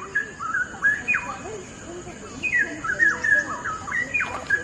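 Straw-headed bulbul (cucak rawa) singing: two runs of quick, sliding whistled notes, with a pause of about a second between them.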